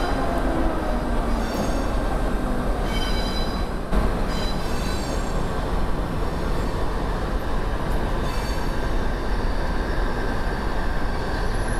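Train moving on the rails, with high-pitched metallic squeals coming and going several times over a steady rumble, and a single sharp knock about four seconds in.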